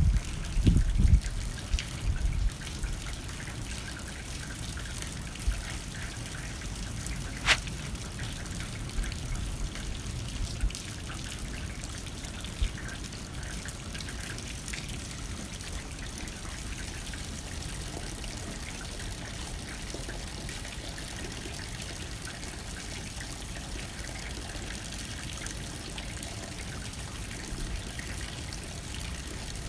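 Rain hitting a window with wind blowing: a steady patter and trickle of water. Low buffeting gusts come in the first couple of seconds, and one sharp tick sounds about seven seconds in.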